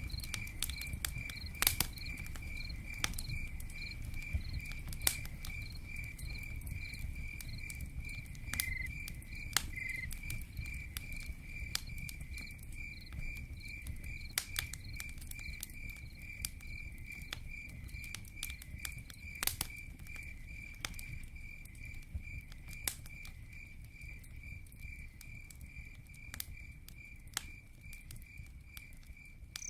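A cricket chirping steadily, about three chirps a second, over a low rushing bed of campfire and rain on a tent. Scattered sharp pops and ticks come through, and the sound fades down a little near the end.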